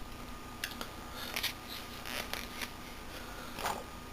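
Quiet room with a faint steady hum and a few soft clicks and rustles spread through it.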